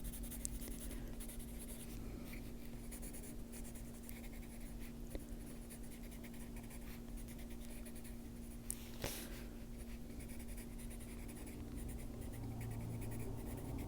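Faber-Castell Polychromos colored pencil scratching faintly on paper as leaves are coloured in, with a couple of light taps near the middle.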